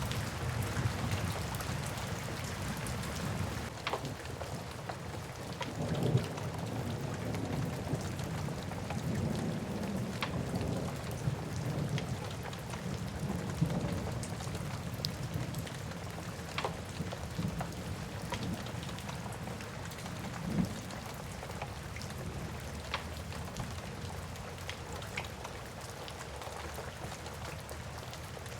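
Steady rain falling, with a low rumble of thunder through the first half and scattered sharp crackles and pops of a wood fire burning.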